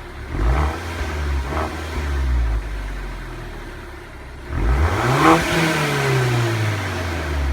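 Audi A4 B7 engine on its stock exhaust being revved: a short blip just after the start that falls back, then a longer, higher rev about four and a half seconds in that peaks and winds slowly back down toward idle.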